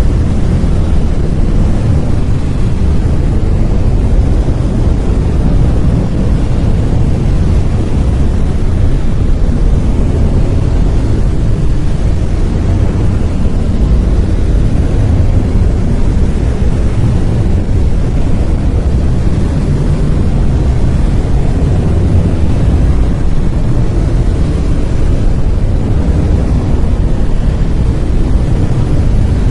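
Brown noise: a steady, deep rumbling hiss with its energy concentrated low and falling off toward the treble, unchanging throughout.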